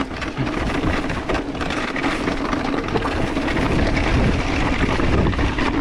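Mountain bike riding over a dirt trail: a steady rush of wind on the microphone over a rough rumble of knobby tyres and rattling bike, with a constant low hum underneath.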